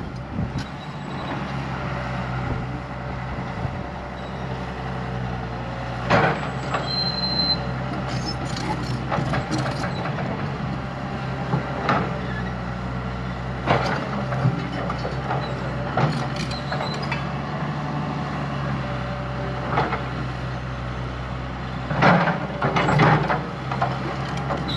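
Diesel engine of heavy earthmoving machinery running steadily, with repeated sharp clunks and knocks over it. There is a short high beep about seven seconds in.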